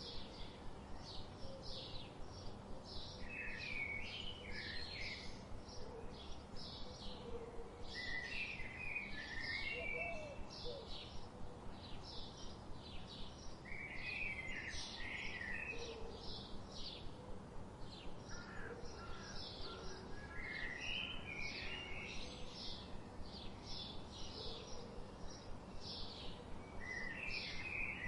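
Forest birdsong: a short, high chirp repeated steadily about three times a second, with a longer, lower warbled phrase every five or six seconds, over a steady low background hiss.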